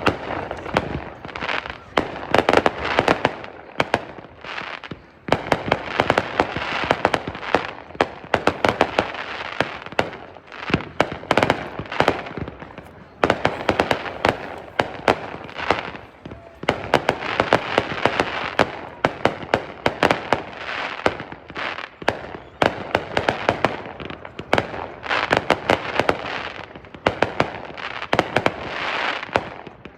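Brothers Pyrotechnics 500-gram consumer firework cake firing a rapid run of shots. Sharp booming breaks and crackle come several a second, in waves with short lulls.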